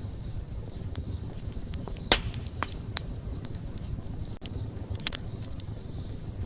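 Wood campfire burning with a steady low rumble of flame and scattered crackles and pops; the sharpest pop comes about two seconds in.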